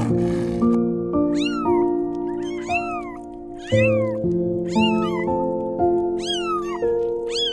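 Very young kittens meowing, about eight thin high-pitched mews, each rising and then falling in pitch, over background music. A brief rush of noise sounds at the very start.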